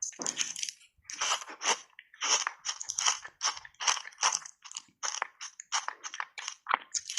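Close-up crunching of button-shaped ice cubes coated in matcha powder being chewed, a rapid, uneven run of sharp crackles, several a second.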